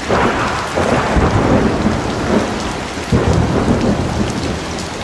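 Rain falling steadily during a thunderstorm, with a rumble of thunder at the start and another about three seconds in.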